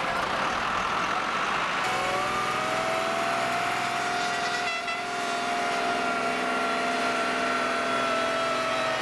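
Pulling tractor's engine running at full power during a pull. A noisy engine sound settles about two seconds in into a steady, high, even pitch that holds and sags slightly near the end.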